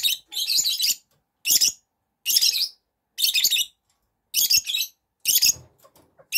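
Young chickens calling: a run of short, harsh, high-pitched calls, about one a second.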